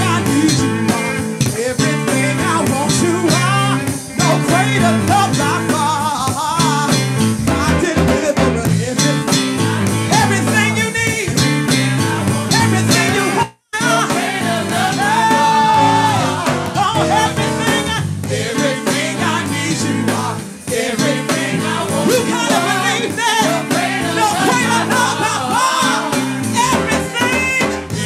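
Gospel worship music: a live band with guitar, and voices singing. The sound drops out for an instant about halfway through, then the music carries on.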